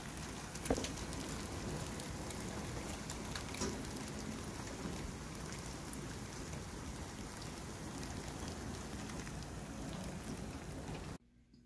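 Steady downpour of rain outside an open screened window, with a few sharp ticks scattered through it that sound to her like hail. It cuts off suddenly near the end.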